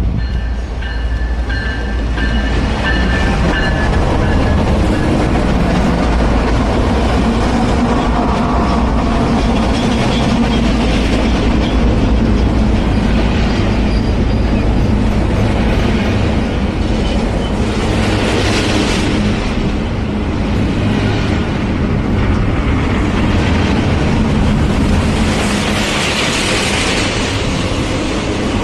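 A long train rolling past close by: a loud, steady rumble of wheels on rail. Brief hissing swells come about two-thirds of the way in and again near the end.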